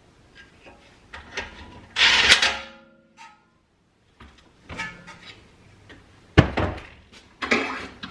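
Metal tools and brake parts knocking and clinking during hand work on a car's rear brake, with a loud ringing metal clatter about two seconds in and a sharp knock and another clatter near the end.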